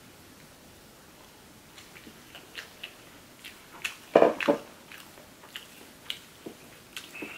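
Close-up eating sounds: chewing and biting a green-onion seafood pancake, with a loud cluster of chewing about four seconds in. Scattered small sharp clicks of metal chopsticks against the plate as pieces are torn off.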